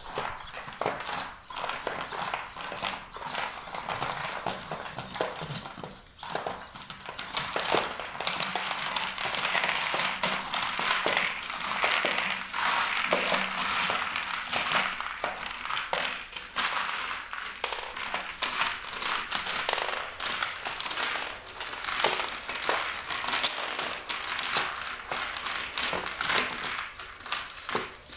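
Legged search-and-rescue robot walking: many light irregular taps of its feet with a steady servo whine that rises in the middle and eases off near the end.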